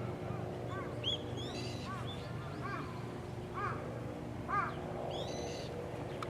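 Wild birds calling: a run of short, arching chirps throughout, with two longer, harsher calls about a second and a half in and again near the end, over a steady low hum.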